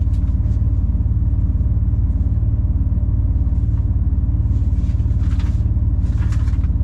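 Diesel engine of a 26-tonne rigid lorry running steadily, heard from inside the cab as a low, evenly pulsing rumble.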